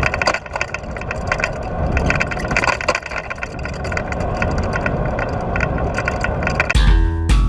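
Steady rumbling road noise of travel, the sound of a vehicle on the move. About a second before the end it gives way abruptly to music with drums and guitar.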